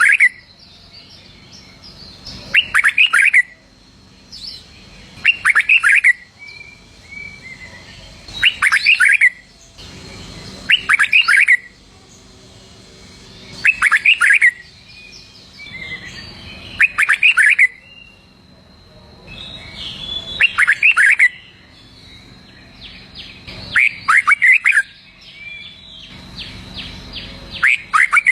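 Red-whiskered bulbul singing: short, loud phrases of quick whistled notes about every three seconds, with softer short calls between them.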